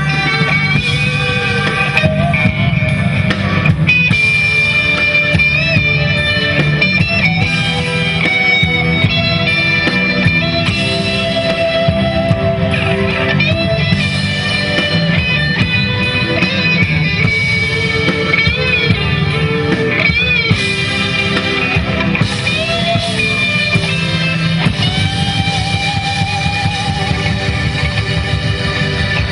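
A band playing loud rock-style music, led by guitar over a steady bass line.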